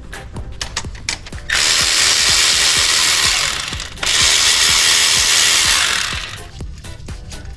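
Ratchet wrench clicking in quick regular strokes while loosening bolts, broken by two loud hissing bursts of a power tool, each about two seconds long, the first starting about a second and a half in.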